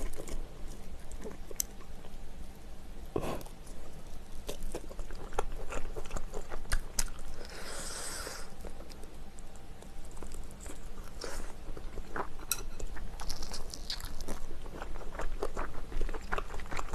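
Close-up chewing of spicy chicken with cartilage: many small, crisp crunches and bites, with a brief breathy hiss about halfway through.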